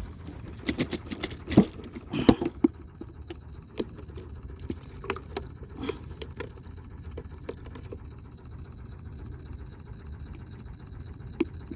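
Handling noises from fishing: a quick run of sharp clicks and knocks in the first few seconds, then scattered lighter ticks, over a steady low rumble.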